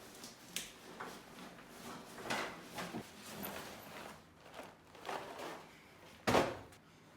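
Handling noises in a small room: scattered clicks, rustles and knocks, with one loud thump about six seconds in.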